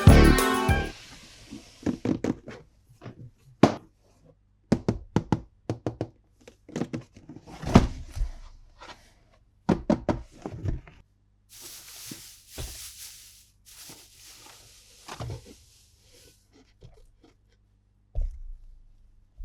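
Toy pieces and packaging being handled: scattered irregular clicks and knocks, with a few short rustling patches about twelve and fourteen seconds in.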